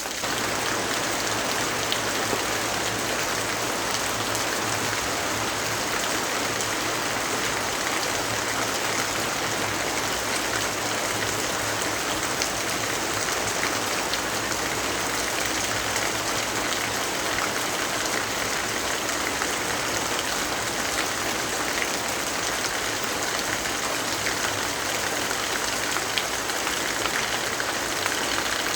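Steady rainfall: a dense, even hiss with many small scattered drop ticks. A faint low hum sits underneath for about the first half.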